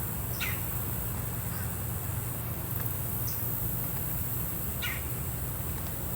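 About four short bird calls, spaced a second or more apart, over a steady low rumble and a steady high hiss.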